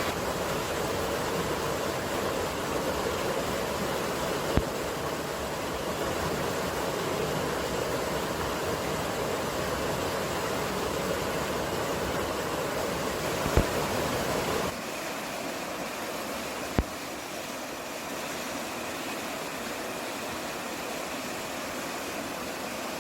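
Mountain field-recording ambience: a steady rushing noise with a few faint clicks. About two-thirds of the way through it cuts to a quieter, thinner stretch of the same kind of rushing.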